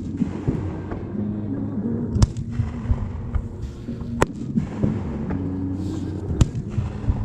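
Fireworks shells bursting, three sharp bangs about two seconds apart with crackle between them, over music playing in the background.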